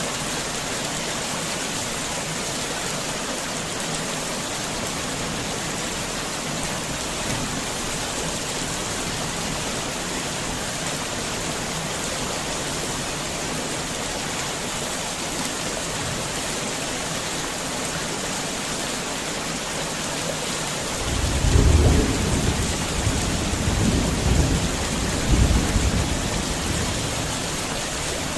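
Heavy rain falling steadily. Late on, a low rumble of thunder rolls in, swelling several times over about five seconds before it dies back under the rain.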